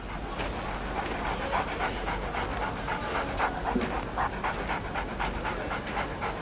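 Harnessed sled dogs panting, a fast, even rhythm of short breaths.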